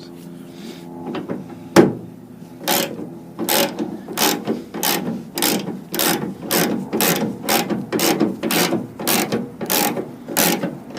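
Hand ratchet wrench clicking in a steady rhythm, about two strokes a second, as a tailgate bolt is worked loose with a 12-point socket. A single sharp knock comes just before the clicking starts.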